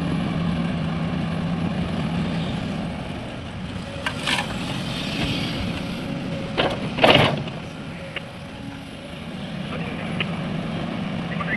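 Excavator's diesel engine running steadily, with a few sharp clatters and knocks in the middle, the loudest about seven seconds in, as the machine works loading a dump truck.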